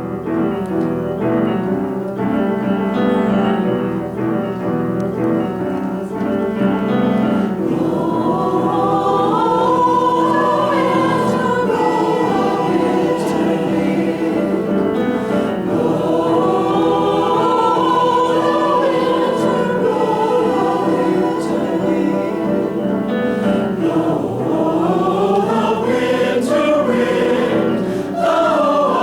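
Choir singing with piano accompaniment. It holds chords at first, then from about eight seconds in its lines rise and fall.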